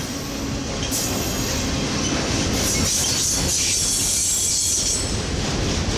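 Autorack freight train rolling past: a steady rumble of steel wheels on the rails, with a thin high-pitched wheel hiss from about two and a half to five seconds in.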